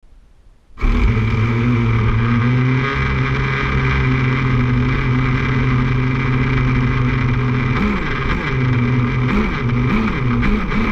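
Small gas engine of an RC truck running, picked up by a GoPro mounted on the truck and sounding terrible. It starts abruptly under a second in with a steady drone, and from about eight seconds in its pitch rises and falls repeatedly as the throttle is worked.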